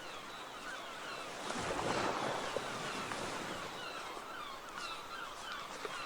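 Shore ambience of waves washing, swelling about a second and a half in, with many short, falling bird calls repeating throughout.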